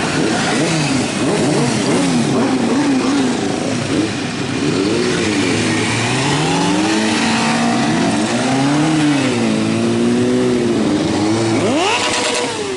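Several motorcycle engines revving up and down at once, their pitches rising and falling over one another, with one sharp high rev near the end.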